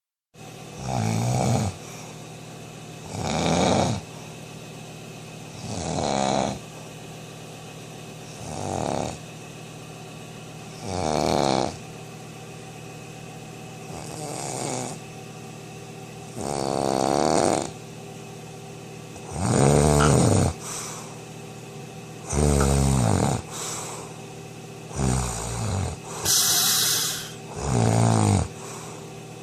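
Snoring: a loud rasping breath every two to three seconds, over a steady low hum.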